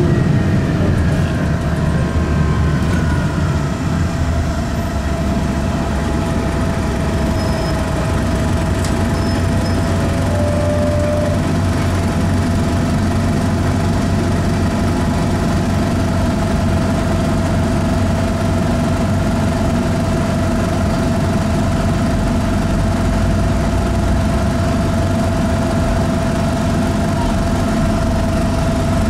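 A 2002 NovaBus RTS's Detroit Diesel Series 50 EGR diesel engine running steadily, with a constant high tone over the engine note that the owner puts down to a bad turbo.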